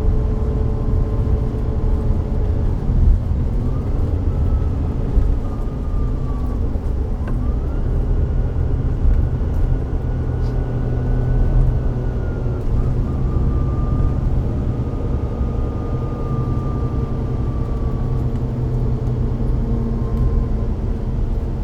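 Volvo B9TL double-decker bus under way: its Volvo D9B-310 diesel engine running with a deep rumble, and a high drivetrain whine that climbs about seven seconds in, holds, then slowly drops away as road speed changes.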